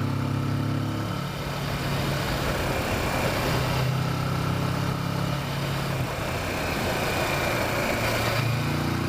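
Kawasaki Versys motorcycle engine running under way on a twisty road. Its steady note is twice drowned by a rush of wind and road noise, about a second in and again about six seconds in, as the throttle and speed change.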